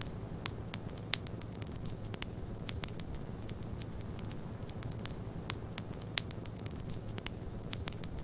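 Wood fire crackling, with irregular sharp pops, the strongest about a second in and near six seconds, over a steady low rush.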